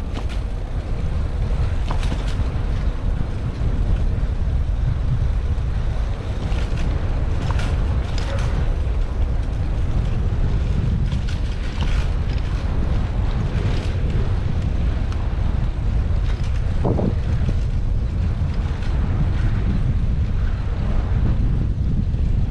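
Wind rushing over the microphone of a bicycle-mounted GoPro during a ride, a steady low rumble with scattered small clicks and rattles. A short pitched squeak sounds once, about two-thirds of the way through.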